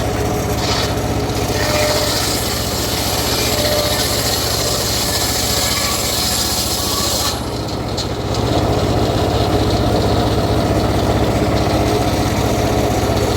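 Homemade engine-driven circular saw rig cutting through teak: a steady engine hum under the hiss of the blade in the wood. The cutting noise drops for about a second just past halfway, then resumes.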